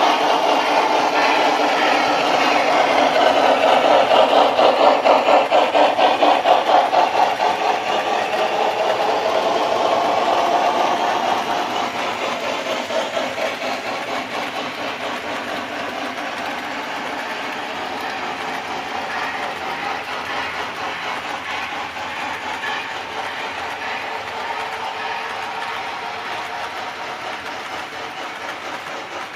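Model Southern Pacific AC-12 cab-forward steam locomotive running with a rapid, regular rhythmic pulse along with rolling train noise. It is loudest for the first several seconds, then fades to a steadier, quieter run after about twelve seconds as the train moves off.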